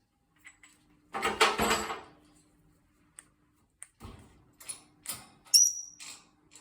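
Clattering rattle of a parrot's foraging toy and cage fittings being knocked about, followed by several sharp knocks and clicks and a short high squeak.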